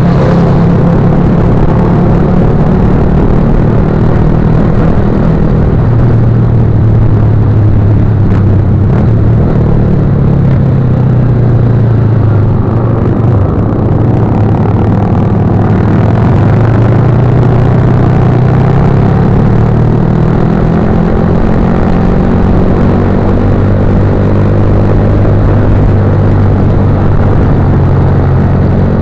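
Motorcycle engine running steadily while riding, its pitch drifting slowly up and down.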